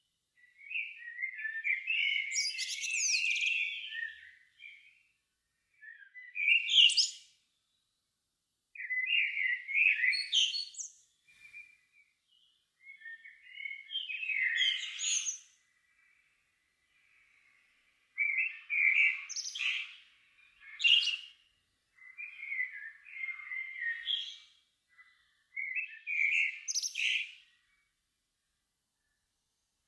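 A songbird singing at dusk: about eight separate song phrases, each a warble that ends in a higher twitter, with short quiet gaps between them.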